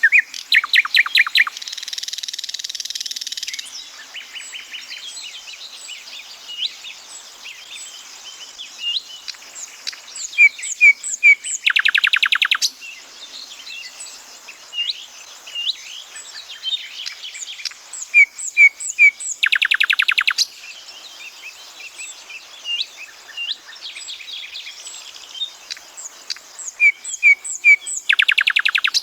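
Thrush nightingale singing loud, varied phrases: runs of rapid clicks, a buzzy passage and short series of repeated whistled notes, with a dense rattling strophe about every eight seconds. Other small birds chirp faintly behind it.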